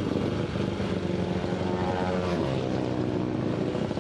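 Single-cylinder Supermono racing motorcycle engine running on track, a steady drone whose pitch drops a little just past halfway, then holds.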